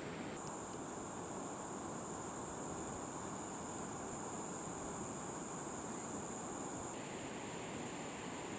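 Steady high-pitched insect drone over a constant rushing noise. The drone steps louder about half a second in and softer again near the end.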